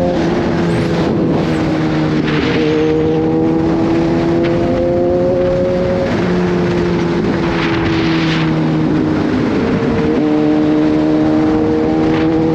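Kawasaki Z H2's supercharged inline-four engine under way. Its pitch climbs with a break for a gear change, falls away as the bike slows through the middle, then picks up again near the end. Short bursts of rushing noise come and go over it.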